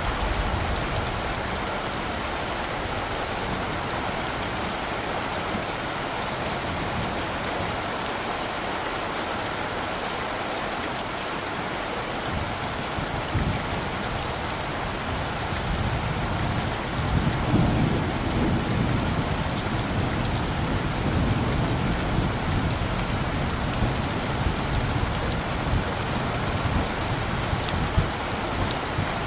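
Steady rain falling, with a low rumble of light thunder swelling a little past halfway through and then fading back under the rain.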